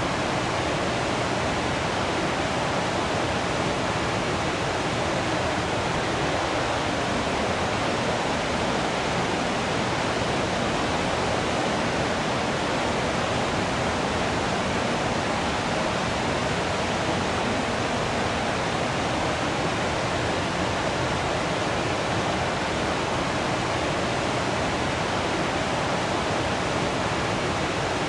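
Waterfall: falling water rushing and splashing in a steady, unbroken roar with no change in level.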